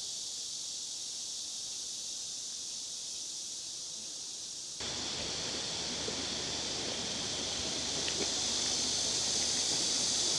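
Outdoor ambience with a steady high-pitched hiss. About five seconds in, the sound changes abruptly to a fuller, slightly louder rustling noise.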